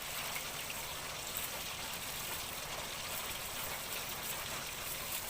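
Heavy rain falling steadily, an even hiss with a few faint drip-like ticks.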